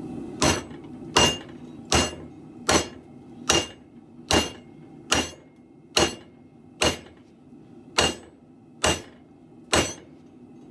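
Hand hammer striking a steel sword blade on an anvil: about a dozen even blows, roughly one every 0.8 seconds, each with a short metallic ring, over a steady low rumble.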